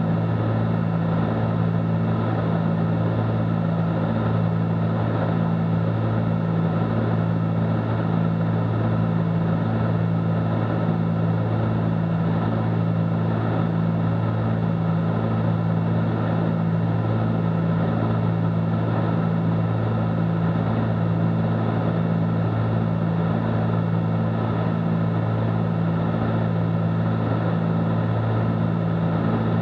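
Cessna 310Q's twin piston engines and propellers droning steadily in the cockpit, a constant low hum at cruise power.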